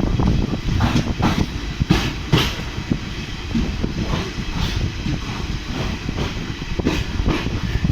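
Boat Mail express train's coaches rolling along the rails: a steady low rumble broken by irregular sharp clacks of the wheels over rail joints.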